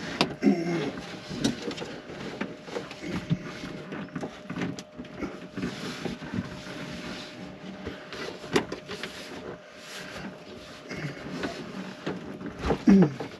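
Irregular knocks, clunks and scraping as heavy RV house batteries are manoeuvred back into place in a battery compartment, with a sharp knock about eight and a half seconds in.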